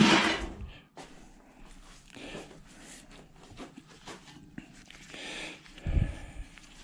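A piece of scrap iron from a washing machine motor is tossed down and lands with a sharp metallic clatter at the start. Faint clicks and handling noises of parts follow, with a dull thump near the end.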